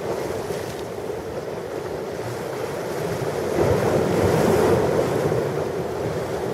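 Ocean surf: waves washing on the shore in a steady rush, with one wave swelling louder about halfway through and then easing off.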